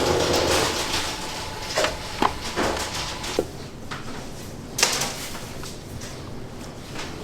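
Clatter of bakery work: a run of short knocks and clicks against a steady kitchen background noise, the loudest knock about five seconds in.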